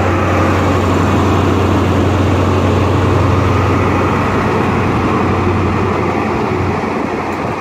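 Diesel engine of a Class 43 HST power car pulling out, a loud steady drone with a strong low hum that eases slightly near the end.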